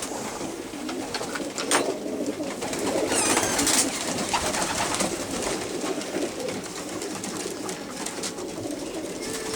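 A loft full of racing pigeons cooing, many birds at once, with scattered sharp clicks. A brief high-pitched squeak cuts through about three seconds in.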